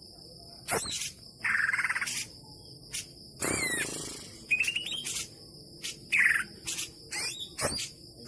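Green leafbird (cucak ijo) singing a varied song of short separate phrases: sharp whistled notes, a quick pulsed trill about a second and a half in, and a rising note near the middle. A steady high insect-like buzz runs underneath.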